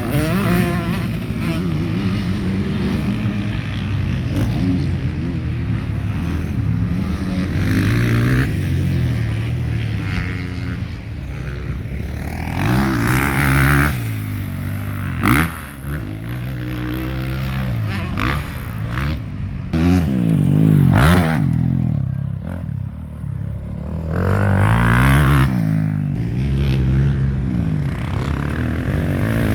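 Several motocross bikes' engines revving, with the pitch repeatedly climbing and dropping as the throttle is opened and shut. Loud surges come and go as bikes pass.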